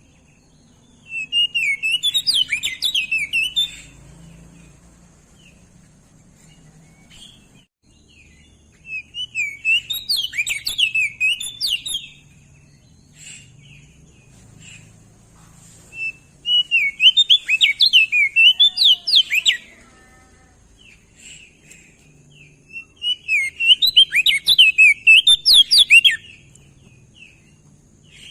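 Crested white-eye (opior jambul) singing: four bouts of rapid twittering song, each about three seconds long, separated by pauses of a few seconds.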